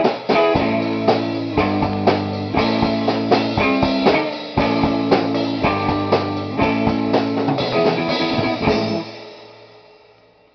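Rock band playing guitar and drum kit with steady drum hits. The song stops about nine seconds in and the last chord rings out and fades away.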